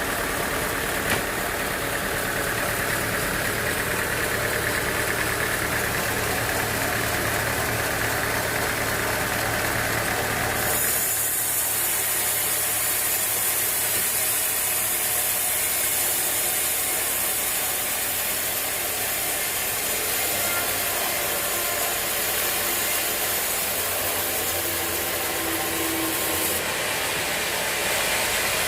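A motor running steadily. About eleven seconds in the sound switches abruptly to a steady high hiss with the low hum much weaker, and near the end it switches back.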